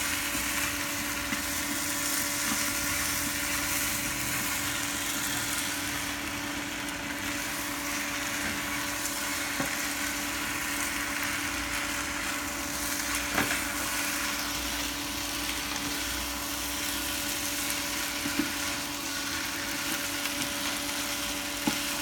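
Glass noodles with seafood and vegetables sizzling as they are stir-fried in a pan, turned with a wooden spatula and chopsticks, over a steady hum. A few sharp knocks of the utensils against the pan.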